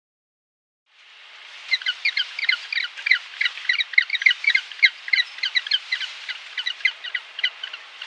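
Birds chirping: many short, high calls in quick succession, several a second, over a steady hiss, starting about a second in after a silence.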